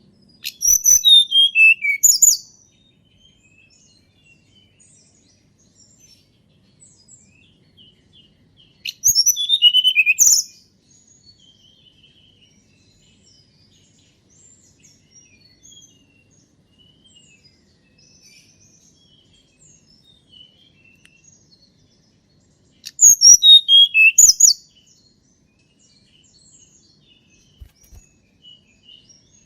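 Tledekan gunung songbird singing three loud phrases, one about a second in, one around nine seconds and one around twenty-three seconds. Each phrase is a quick run of clear notes stepping down in pitch and lasting a second or two. Faint chirps of other small birds carry on between the phrases.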